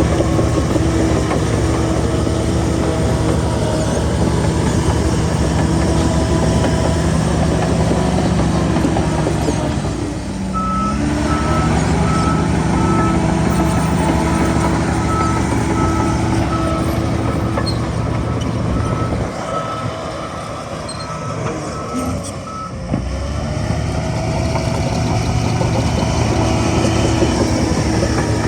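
Heavy diesel earthmoving machinery running steadily. About ten seconds in, a backup alarm starts beeping at an even pace and stops about twelve seconds later, while the engine note dips briefly.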